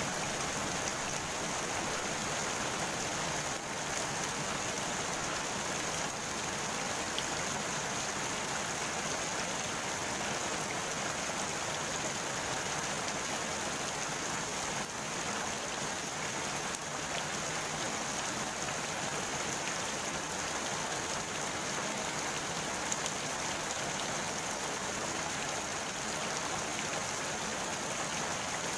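Rain falling steadily on the surface of a pond, an even, unbroken patter of drops on water.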